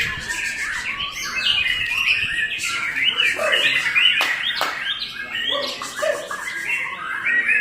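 White-rumped shama (murai batu) singing: a fast, unbroken run of varied whistled notes, up-and-down glides and chirps, with a few sharp clicking notes mixed in.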